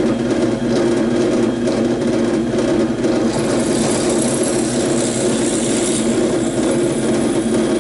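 Electric drill running steadily while drilling out a stud hole in a truck battery tray with a 5/32-inch bit. The cutting noise gets brighter and harsher about three seconds in.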